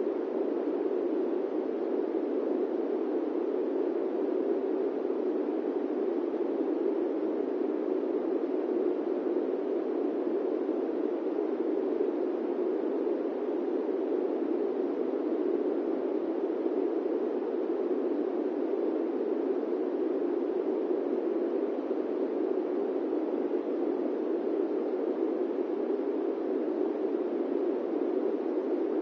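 Steady airplane cabin noise: an even, unchanging rush centred in the low-middle range, with no distinct tones or events.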